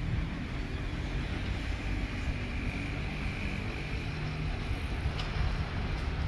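Distant diesel train approaching, a low steady rumble mixed with wind buffeting the microphone; a faint high steady tone sounds for a few seconds in the middle.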